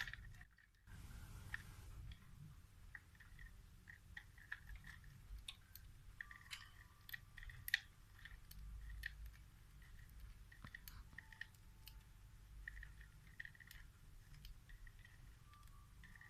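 Faint, scattered clicks and small crunches, irregular and unrhythmic: a budgie pecking and chewing at a homemade plastic foraging toy.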